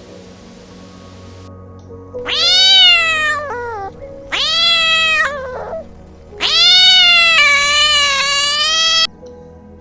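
A cat meowing three times, drawn-out meows that rise and fall in pitch, the third the longest. Soft background music plays underneath.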